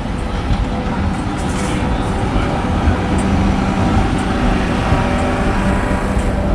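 A city tram moving along the street amid road traffic, with a steady hum from a few seconds in.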